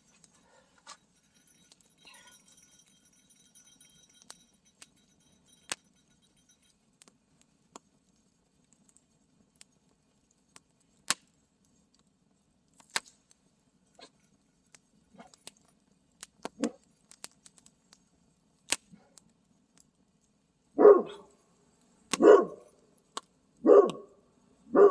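Campfire crackling with scattered sharp pops, then a dog barks four times, about a second or so apart, near the end.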